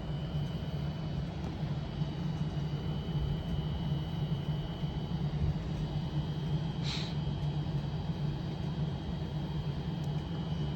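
Avanti West Coast electric train standing at the platform before departure: a steady low hum with a thin high whine over it, and a short hiss about seven seconds in.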